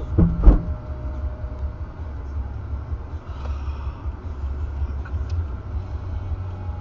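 Steady low rumble of a moving car heard from inside, with two loud sudden thumps in the first half second.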